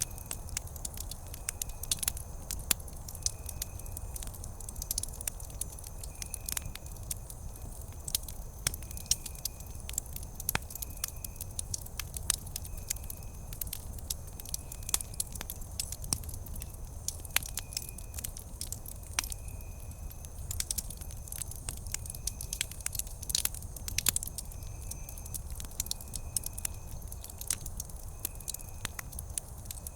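Wood campfire crackling, with frequent sharp pops over a low steady rumble of the flames. A faint short chirp repeats about once a second in the background.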